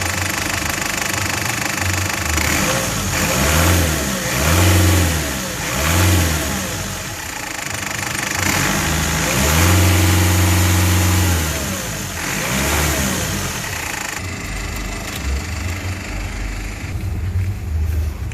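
Mercedes-Benz Sprinter's newly fitted OM611 four-cylinder diesel engine being revved up and down several times, one rev held high for a couple of seconds around the middle, then dropping back to idle near the end.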